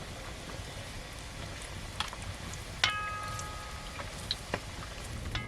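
Steady hissing noise, like rain or sizzling, with a few light clicks over it. About three seconds in, a sharper clink rings on with a clear tone for about a second.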